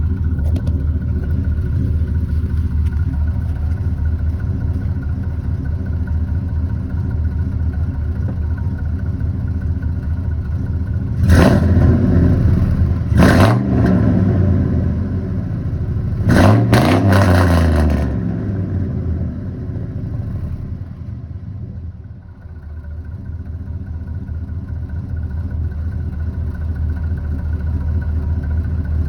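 2003 Chevrolet Silverado 1500HD's 6.0-litre V8 idling through true dual exhaust with Flowmaster mufflers. About halfway through, the throttle is blipped three times in short revs, and the engine then settles back to idle.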